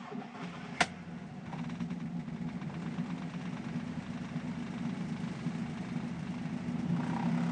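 The 1968 Fiat 500F's air-cooled two-cylinder engine running steadily just after catching on its first start in seven years, cold and on choke. A single sharp crack about a second in, and the engine grows a little louder near the end.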